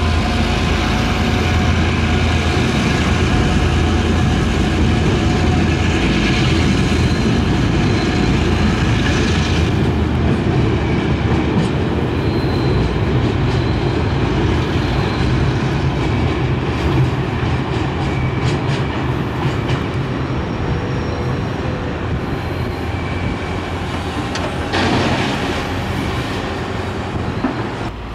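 Diesel-hauled train of empty ballast hopper wagons rolling slowly past, with a diesel engine drone in the first several seconds and the wagons rumbling and clicking over the rail joints. Faint wheel squeal runs underneath.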